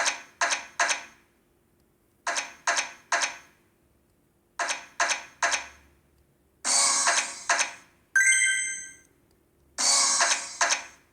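Video slot machine sound effects: three quick clacks in a row, about 0.4 s apart, repeated three times with pauses in between, like the reels stopping one after another. Later come two longer hissy sounds, and between them a bright ringing chime that dies away about eight seconds in.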